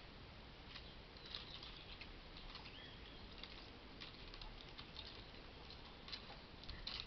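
Faint, scattered short high chirps and clicks from small birds. There is a short gliding call about three seconds in and a louder cluster of chirps near the end.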